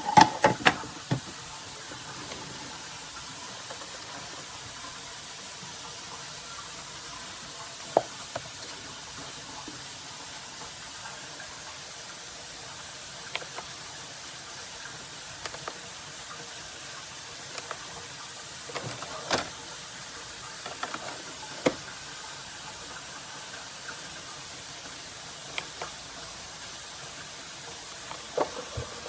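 A few sharp knocks and clicks, scattered and several seconds apart, with a short cluster right at the start, over a steady background hiss.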